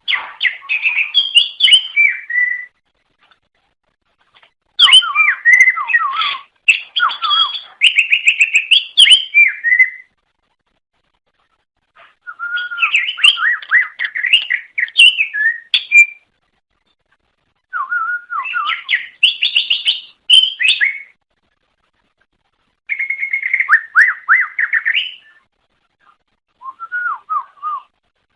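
Cucak ijo (green leafbird) singing loud, varied phrases of rapid whistled and chattering notes that glide up and down, repeated about six times with short pauses between phrases.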